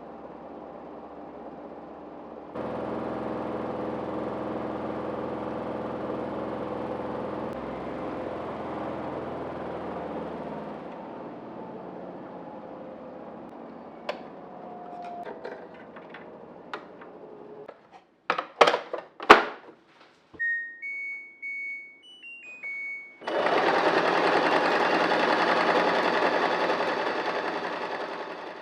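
Sewing machine stitching in two runs, the second louder, with sharp clicks and a few short electronic beeps in between.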